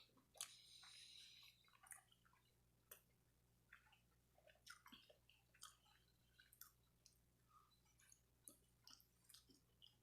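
Faint chewing and mouth clicks of a person eating, with a short, louder noise about half a second in.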